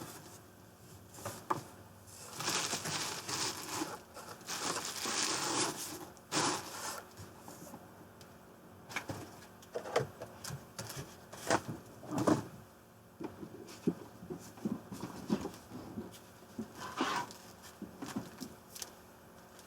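Packaging being handled: several seconds of rustling and crinkling, then scattered light knocks and clicks as items are set down and moved.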